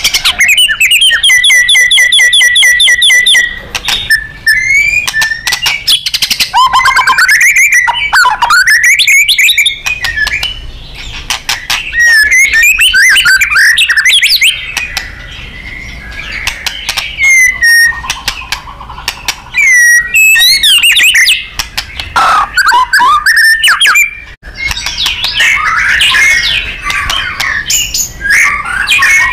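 White-rumped shama (murai batu) singing loudly in a long, varied song. It opens with a fast run of evenly repeated notes, then moves into rising and falling whistles, with scratchier, chattering phrases near the end.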